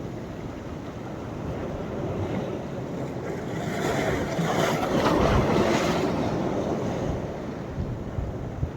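Sea waves breaking on the shore: a steady wash of surf that swells as a wave crashes about four seconds in, then fades back as it runs out. Wind gusts thump on the microphone near the end.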